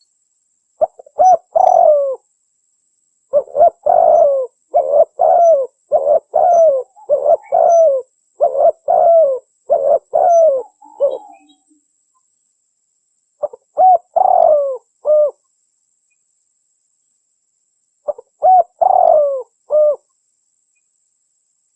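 Spotted dove cooing in repeated phrases of short, pitched coo notes: a brief phrase about a second in, a long run of coos from about three to eleven seconds, then two shorter phrases near fourteen and nineteen seconds, with silence between.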